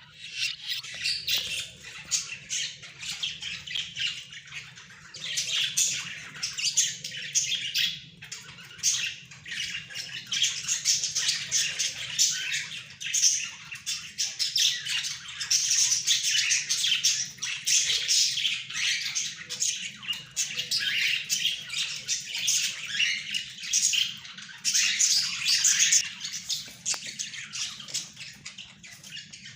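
A flock of budgerigars chattering and squawking without a break, many quick overlapping warbles and chirps, louder in waves.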